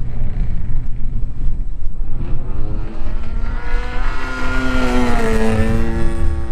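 DA-50 single-cylinder gas engine of a 50cc RC aerobatic plane in flight, growing louder and rising in pitch, then dropping to a lower steady pitch about five seconds in.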